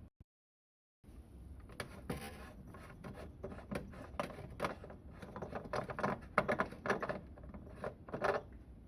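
Sharp clicks, scrapes and rubs of hard plastic being handled inside a mabe MSMS2LG refrigerator, at its interior lamp cover and bulb, starting about two seconds in over a low steady hum.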